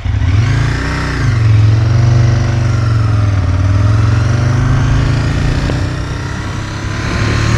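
Aprilia RSV's V-twin engine pulling under throttle while riding. Its pitch rises, dips about a second in, climbs and holds, then sags and picks up again near the end.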